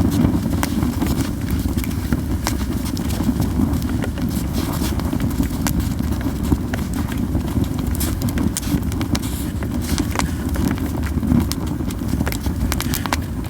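Yew-wood campfire burning, crackling with many irregular sharp pops and snaps over a steady low rumble.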